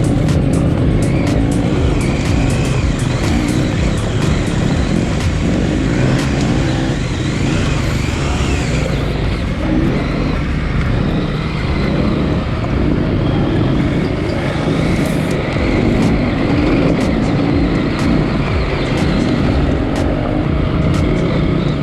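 KTM 890 Adventure R's parallel-twin engine running under load on a dirt trail, its revs rising and falling, with many short sharp ticks over it.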